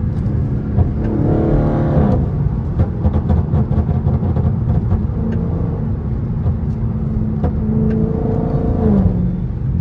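Dodge Charger 392's 6.4-litre HEMI V8 running under way. It pulls with its pitch rising and drops at an upshift about two seconds in, then pulls again and drops at another shift near the end.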